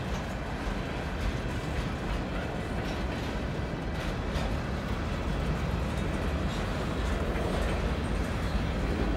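Freight cars of a Canadian Pacific train rolling past: a steady rumble of steel wheels on rail, with occasional faint clicks.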